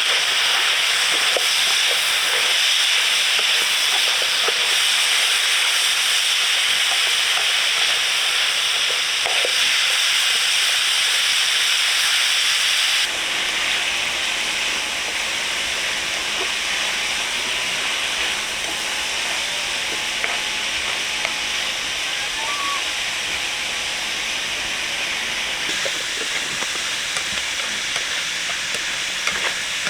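Steady hiss of food cooking, its sound shifting slightly quieter and fuller about a third of the way through.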